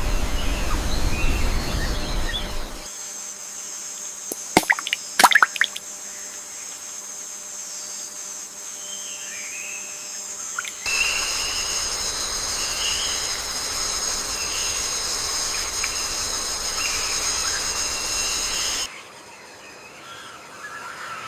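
Rainforest ambience: a steady high-pitched insect chorus with scattered bird calls, and a few sharp calls about five seconds in. The mix changes abruptly three times, at cuts between recordings.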